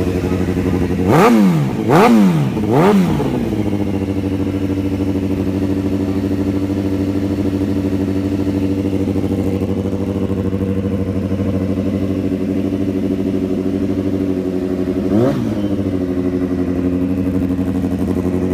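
2013 Yamaha FZ1's inline-four idling through an aftermarket M4 exhaust. It is blipped three times in quick succession about a second in, settles back to a steady idle, and is blipped once more, briefly, later on.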